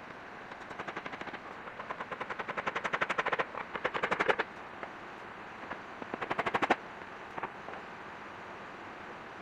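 A hand saw cutting bamboo in quick runs of rapid strokes, about eight a second, each run growing louder and then stopping abruptly, twice.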